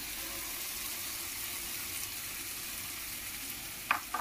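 Shallots, tomato and freshly added ground masala paste sizzling steadily in oil in a non-stick kadai, with two light taps near the end.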